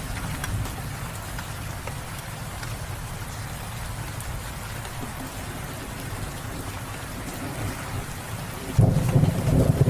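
Steady rain falling, with a low rumble underneath; about a second before the end a loud roll of thunder breaks in.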